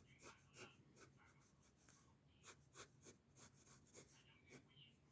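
Pencil scratching on paper in short, irregular sketching strokes, several a second, faint.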